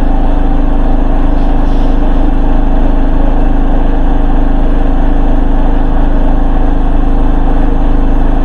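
Hoover H-Wash 300 Plus washing machine on its final spin, the drum running steadily at high speed with a loud, even hum.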